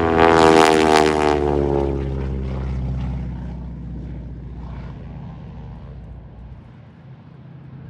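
Propeller airplane flying past, its engine and propeller note dropping in pitch as it goes by, loudest about half a second in and then fading away over several seconds.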